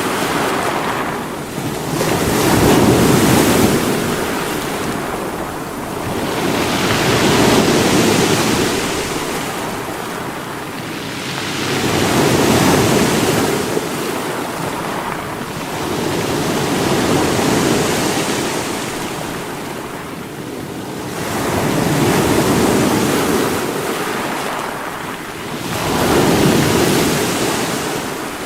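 Sea waves breaking against rocks, a continuous rushing wash that surges and falls back about every five seconds.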